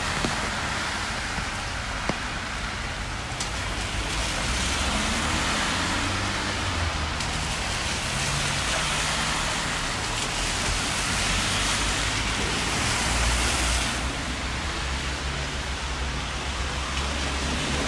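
Steady hiss of rain falling on a wet city street, with a low rumble underneath that swells and fades.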